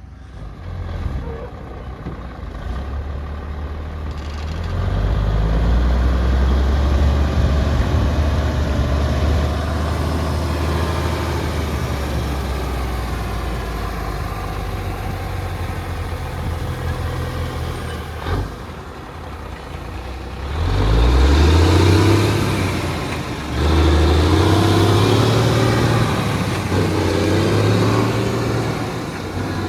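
Pickup truck engine running, its pitch rising twice as it accelerates in the second half. A single sharp knock sounds about eighteen seconds in.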